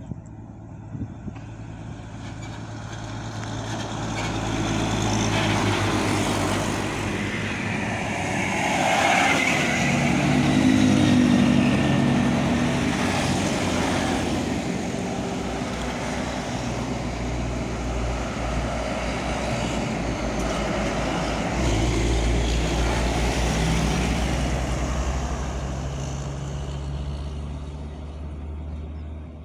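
Heavy trucks passing on a road, engine and tyre noise. It builds over the first few seconds, is loudest around ten seconds in, and then holds as a steady low engine drone.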